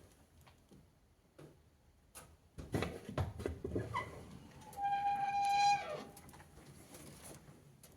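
Fire in a wood-burning stove with leather riding boots burning: light crackles, then a rushing burst about two and a half seconds in, and a steady high whistle lasting about a second that drops in pitch as it stops.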